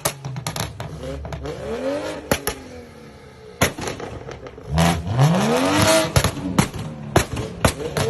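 A performance car's engine revved twice, the second rev higher and longer, with a string of sharp exhaust pops and bangs crackling through it.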